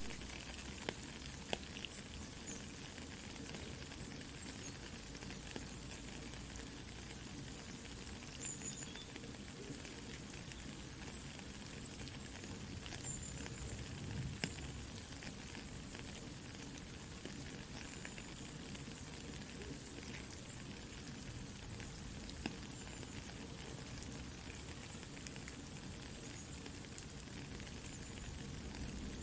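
Soft rain falling steadily, mixed with the scattered small crackles and pops of a campfire.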